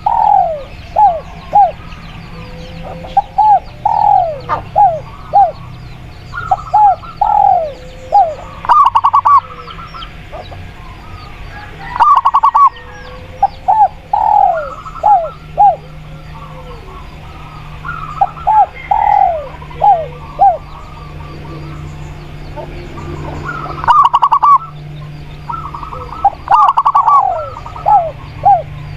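Spotted dove and zebra dove cooing, in repeated phrases of short descending notes every few seconds, over a low steady hum.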